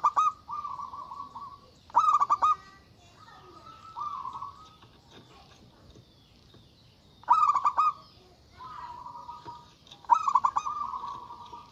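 Zebra dove (perkutut) cooing: about five short phrases of rapid, pulsed coos, each lasting under a second to about a second and a half, with brief pauses between them.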